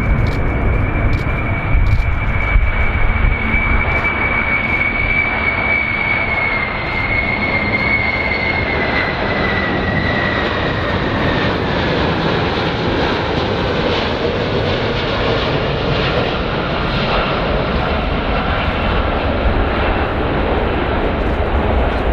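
Large airplane's engines running with a steady rush and low rumble, and a high whine that drops slowly in pitch between about six and twelve seconds in.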